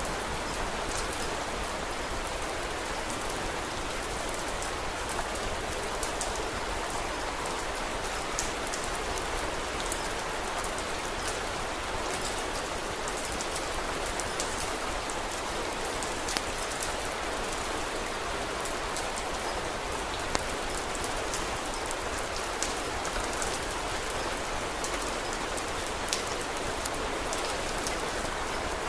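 Steady rain pattering, with many small sharp ticks and a few louder pops scattered through it.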